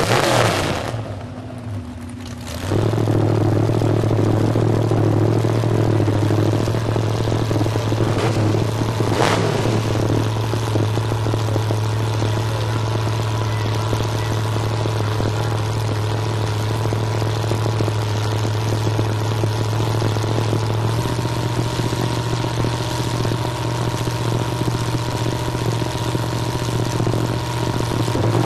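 After a quieter first few seconds, an SUV engine comes in at about three seconds and runs at a steady speed, its pitch stepping up slightly about three-quarters through.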